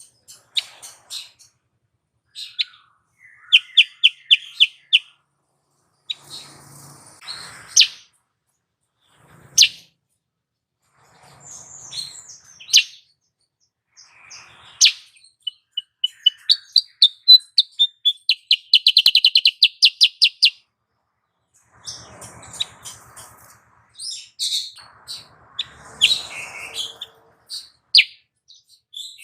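Recorded calls of a female kutilang sutra (a bulbul): separate sharp chirps and short rapid trills, with a longer, louder rapid trill about two-thirds of the way through. This is the call used to lure and excite male birds into singing.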